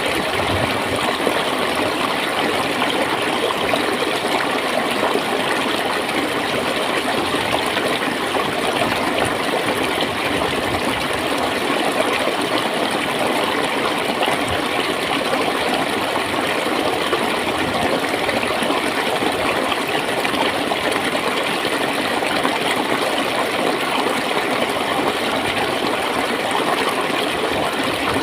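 Clear stream water flowing and gurgling steadily over stones.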